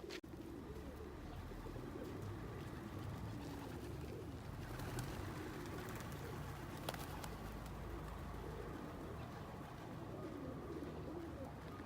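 A flock of pigeons cooing, many low wavering coos overlapping continuously.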